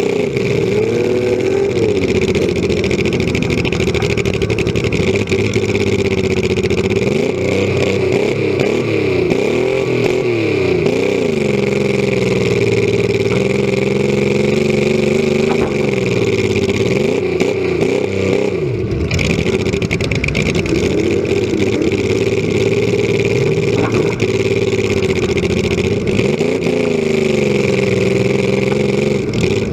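Demolition derby compact car's engine running loud through short open exhaust stacks, revving up and easing off again and again.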